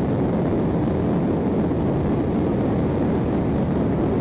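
Steady low rumbling noise of a moving vehicle, even throughout with no distinct events.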